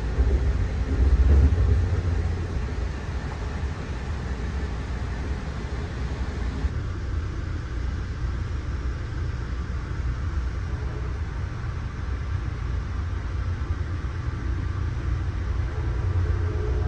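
Amtrak Amfleet I coach rolling along the track, heard from inside the car: a steady low rumble with a hiss of track noise above it. The rumble is strongest in the first couple of seconds, and the hiss drops off abruptly about seven seconds in.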